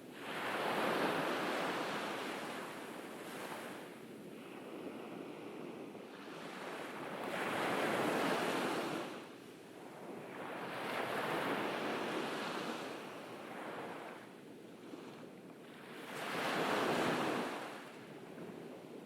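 Ocean waves breaking and washing up a beach, the surf swelling four times a few seconds apart, each swell rising and fading away.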